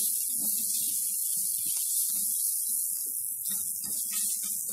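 Grated carrot, potato and onion frying in a stainless steel pot with a steady sizzle, while a silicone spatula stirs and scrapes through them in short, irregular strokes.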